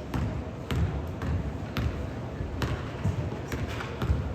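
Basketball bouncing on a gym floor during play: irregular thuds, about one every half second to a second, over a background of voices.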